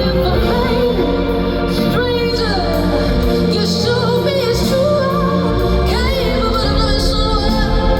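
A woman singing live over sustained instrumental accompaniment, with gliding, ornamented vocal runs and no clear words, typical of a soul-pop ballad.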